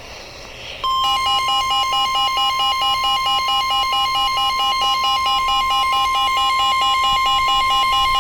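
Emergency weather alert attention tone: after a brief hiss, a loud steady high beep starts about a second in, overlaid with a rapid warbling trill of alternating tones about four times a second. It signals the start of a severe thunderstorm warning broadcast.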